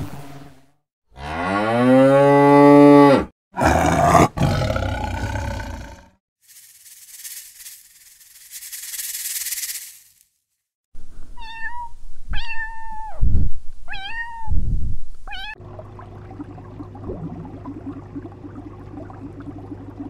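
A run of different animal sounds, one after another: a long, low call rising slightly in pitch, a hiss lasting a few seconds, four short chirps that each sweep down, then a steady low hum.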